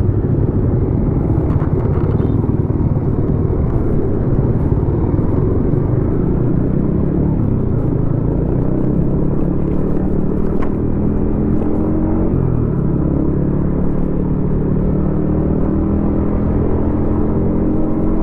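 Yamaha XSR155's single-cylinder engine running through a DIY exhaust: an uneven low rumble, the pitch dropping about seven to eight seconds in, then rising steadily over the last six seconds as the bike accelerates.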